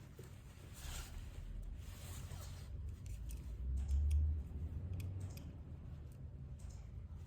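Light handling noises from smartphone repair work: brief rustles and a few small clicks, over a low rumble that swells about four seconds in.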